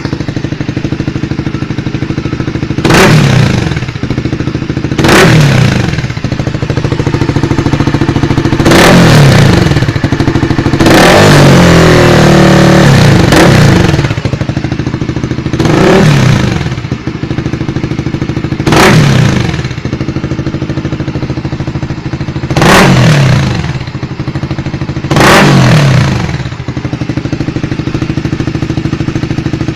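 Single-cylinder motorcycle with a Pro Liner TR1 racing exhaust and its dB killer fitted, idling and being blipped: about eight short revs, each falling back to idle. One held rev lasts about three seconds near the middle.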